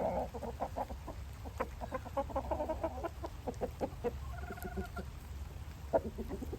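Roosters clucking: a run of short, rapid clucks, with a brief higher-pitched call about four and a half seconds in.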